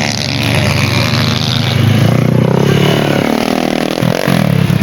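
Motorcycle engine running and revving, its pitch climbing through the middle and dropping briefly near the end.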